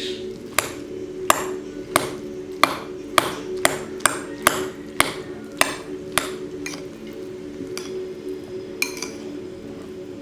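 About a dozen sharp knocks or taps in an irregular run that thins out near the end, over soft background music.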